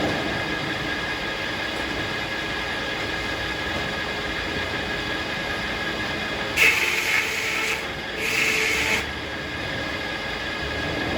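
Circular sawmill running steadily, with two short louder bursts of machine noise about two-thirds of the way through.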